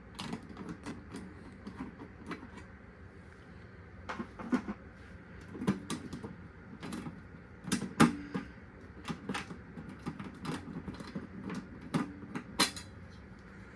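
Irregular clicks and knocks of a water heater's access panel cover being handled and taken off, the loudest about eight seconds in and another near the end.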